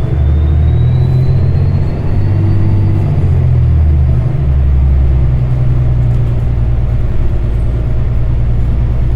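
City transit bus engine and drivetrain heard from inside the passenger cabin: a loud, deep, steady drone that steps in pitch a couple of times, with a faint whine rising over the first few seconds.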